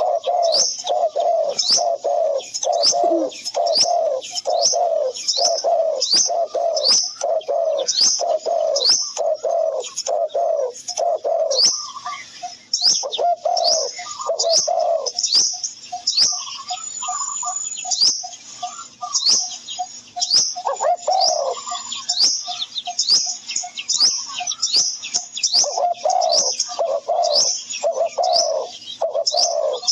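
Birdsong: a fast run of low, repeated calls, about two a second, with high chirps over them. The low calls thin out and stop for a stretch around the middle, then come back.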